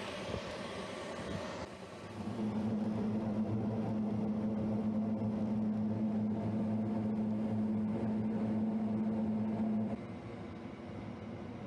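The combustion inducer motors of a Lennox rooftop gas heating unit running with a steady hum. About two seconds in, a louder, deeper steady hum joins them, then cuts off abruptly near the end.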